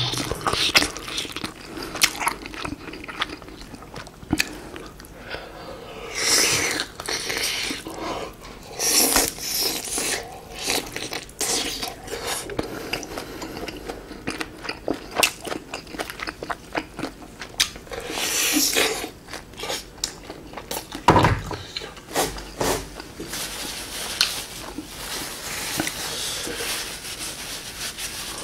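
Close-miked chewing and biting of meat pulled from a bowl of spicy beef soup, with many small wet mouth clicks and a few longer noisy stretches. A single heavier thump about 21 seconds in.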